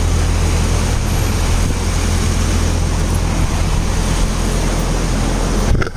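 A vehicle engine running steadily with a low rumble, cut off briefly just before the end.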